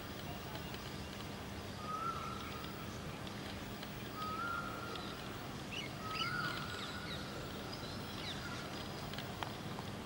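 A bird calling: four short whistled notes, each rising slightly and then holding level, about two seconds apart, with a few faint higher chirps around the middle. Underneath runs steady outdoor background noise with a low hum.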